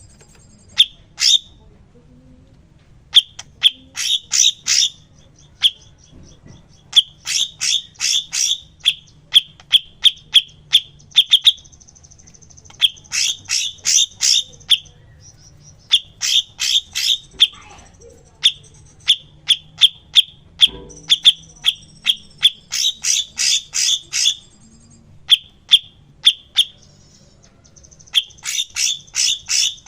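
A cucak cungkok singing as a masteran tutor recording: bursts of sharp, quick chip notes repeated in rapid series, broken by short pauses, with a fainter thin high whistle between some phrases.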